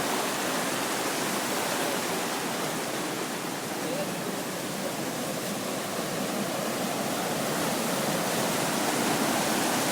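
Steady rushing of flowing water, growing slightly louder near the end.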